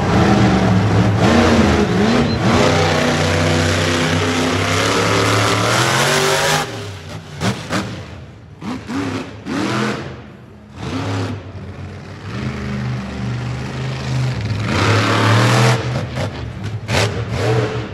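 Monster truck engine revving hard and held at high revs, then dropping to a string of short throttle blips. It builds back up to hard revving near the end.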